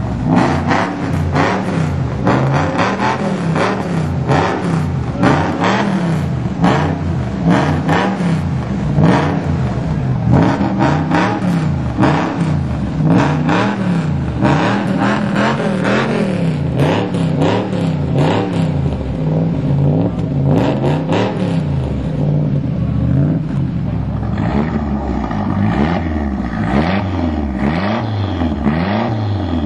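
Lancia car engines revved hard again and again without moving off, the pitch rising and falling about once a second, with sharp cracks mixed in.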